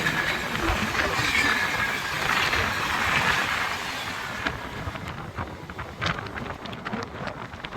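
A train running past with a rushing noise that dies down after about four seconds, leaving scattered sharp clicks.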